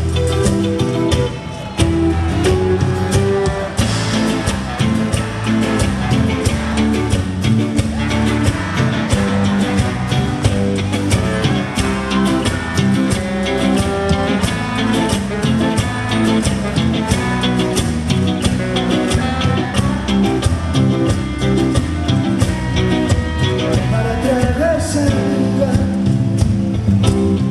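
A live band playing an instrumental passage of a song, with guitar over a steady drum beat.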